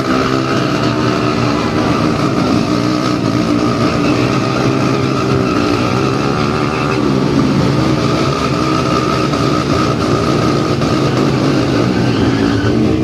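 Motorcycle engines running and being revved, the pitch rising and falling several times.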